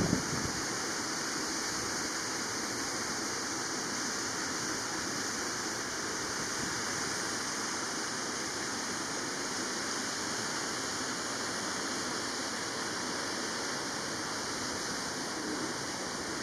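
Steady rushing noise, even and unbroken, with a brief low thump at the very start.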